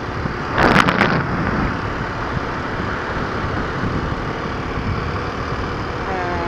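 Kawasaki KLX250 single-cylinder dual-sport motorcycle running at riding speed, heard through the rider's goggle camera as a steady rush of engine and wind noise. A brief loud burst comes about a second in, and near the end the engine note becomes clearer as a pitched hum.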